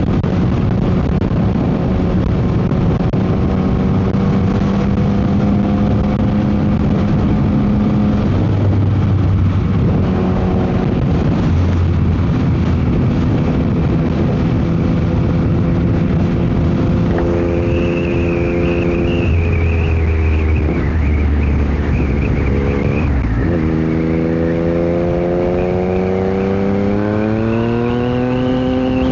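Yamaha MT-09 SP three-cylinder engine through a Dominator GP aftermarket exhaust while riding, under heavy wind noise on the microphone. The engine note holds fairly steady, breaks off and picks up again a few times, and climbs in pitch over the last few seconds as the bike accelerates.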